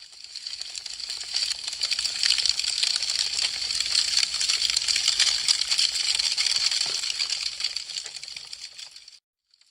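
Burning wood crackling and popping in a dense, continuous stream over a soft hiss. It swells in over the first second or two, has one deeper pop near the seven-second mark, and fades away near the end.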